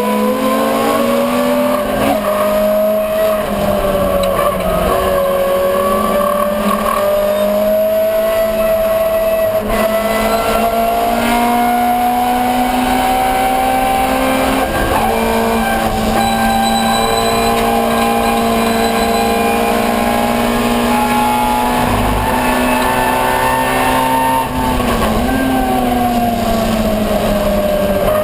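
Ford Escort 1300GT's four-cylinder engine running hard under racing load. Its pitch climbs slowly over long pulls and drops back briefly around fifteen seconds in and again around twenty-five seconds in.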